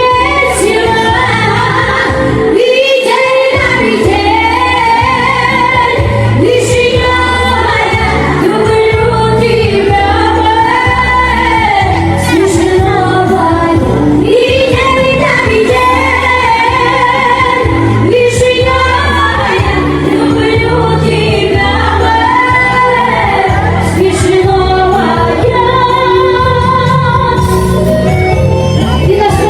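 A female vocalist sings a melodic, held vocal line over a pop-style backing track with a steady bass beat.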